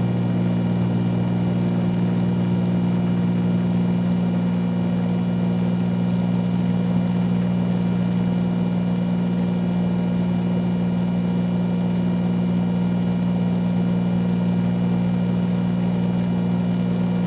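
Steady cabin drone of a 1974 Cessna 310Q's twin piston engines and propellers in the climb after departure: an even, unbroken hum with a strong low pitch and fainter higher tones above it.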